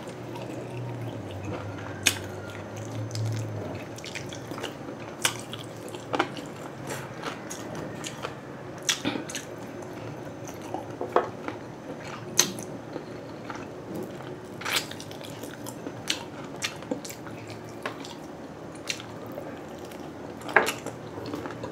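Close-miked chewing of grilled meat, with wet mouth sounds and sharp lip-smacking clicks every second or two.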